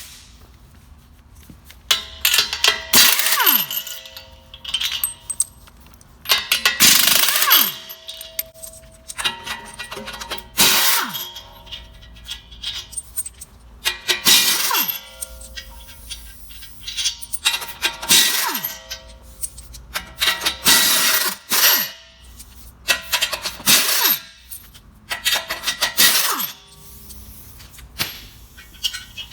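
Wood chunker cutting wood: about ten loud crunching, cracking bursts at irregular gaps of two to four seconds, each with a falling whine as the cutter head slows under the load.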